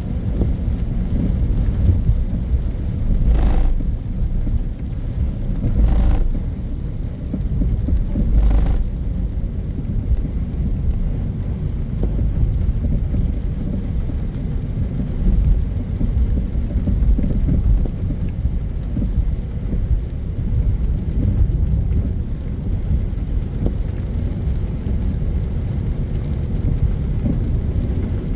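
Steady low rumble of a vehicle travelling along a road, road and wind noise on the microphone, with three brief louder surges in the first nine seconds.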